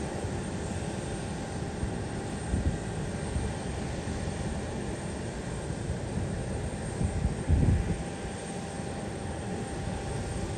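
Aircraft engine noise at an airport, steady, with irregular low rumbling surges about a third of the way in and again past the middle, like wind gusts buffeting the microphone.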